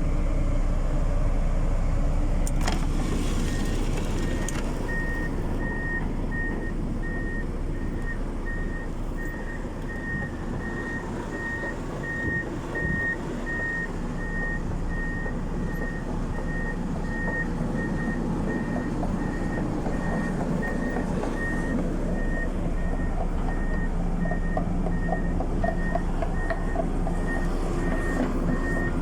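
Blizzard wind rumbling on the microphone. From about five seconds in, a vehicle's reversing alarm beeps steadily at one high pitch, about two beeps a second.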